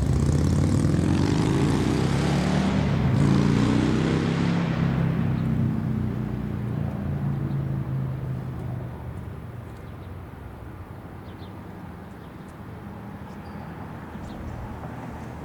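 An engine passing by: it is loudest about three seconds in, its pitch shifts as it passes, and then it fades away over several seconds.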